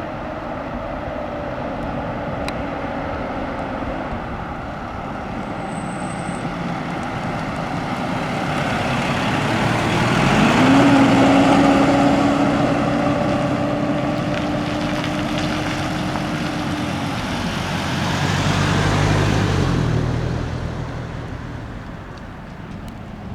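A large truck's engine running as it drives by. Its note rises about ten seconds in, holds steady for several seconds, then drops away, and a second swell of traffic noise comes near the end.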